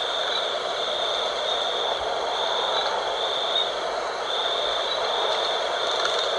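Night wind blowing steadily, with a high trill that keeps pulsing on and off about once a second.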